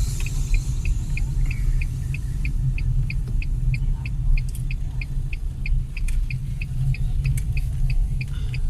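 Car turn-signal indicator ticking steadily, about three clicks a second, over the low rumble of the car's cabin in slow traffic.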